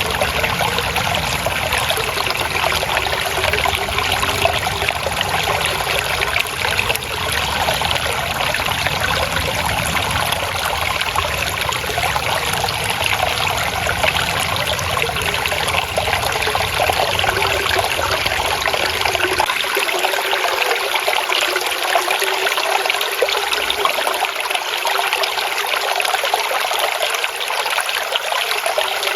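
Water trickling and babbling steadily in a stream. A low rumble underneath cuts off about two-thirds of the way through.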